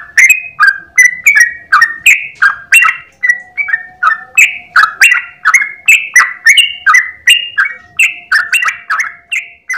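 Yellow-vented bulbul (trucukan) singing a fast, unbroken string of bubbly notes, about three a second, in the long continuous 'ropel' style.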